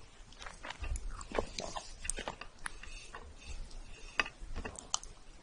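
Close-miked eating sounds: wet mouth clicks and smacks as soft chocolate cake is chewed, several a second, with a wooden fork pressing and cutting into the cake.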